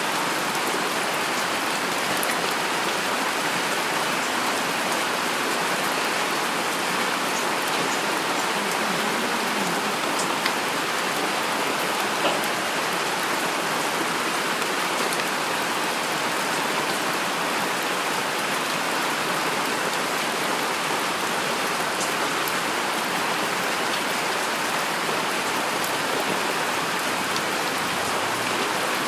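Heavy rain falling steadily, an even hiss of rainfall with a couple of sharper drop hits about ten and twelve seconds in.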